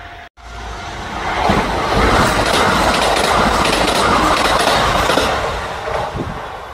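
Kintetsu limited express electric train passing close by: wheels rumbling and clacking over the rails, building up about a second and a half in, loudest for a few seconds, then easing off.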